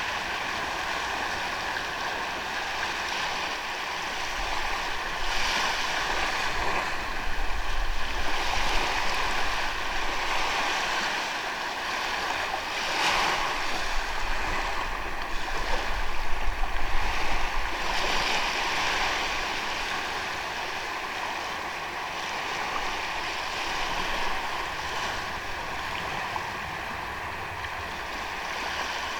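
Sea waves breaking and washing up a beach, a steady surf hiss that swells to a louder surge in the middle and then eases back.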